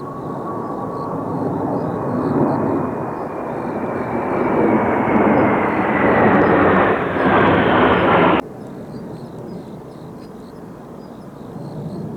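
Kawasaki T-4 jet trainers passing overhead: a turbofan roar builds with a whine that slowly falls in pitch, then cuts off abruptly about eight seconds in.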